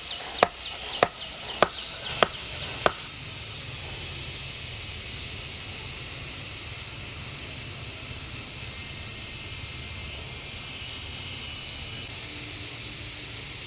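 Six sharp chopping strikes, evenly spaced a little over half a second apart, stopping about three seconds in. Then a steady high insect drone with a low rumble.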